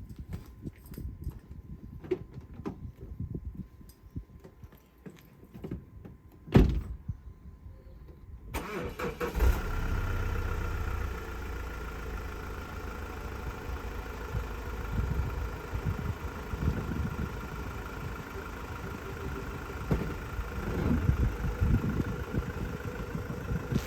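A single loud thump, then about two seconds later an engine starts and keeps running steadily.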